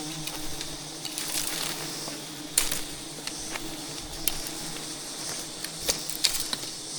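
Honey bees buzzing as a faint hum, with scattered sharp clicks and crackles about once a second from the hive being worked.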